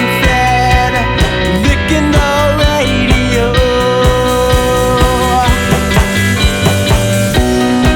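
Rock band music: drums keeping a steady beat under bass and sustained, gliding guitar lines.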